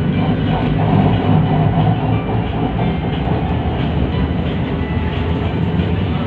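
Steady rumble of a Kuala Lumpur MRT train heard from inside the carriage, with a faint steady whine over it for the first few seconds.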